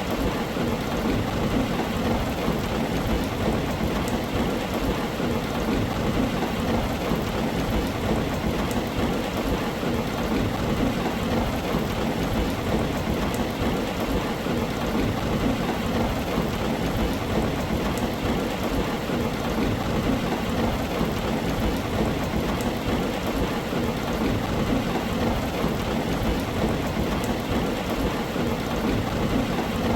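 Steady rain falling on a tin roof, an even, dense patter with a low rumble of thunder underneath.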